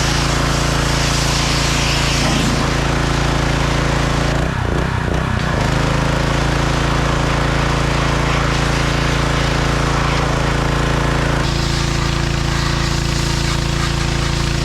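John Deere 1025R compact tractor's three-cylinder diesel engine running steadily at working speed while the 260B backhoe digs. Its pitch wavers briefly about five seconds in.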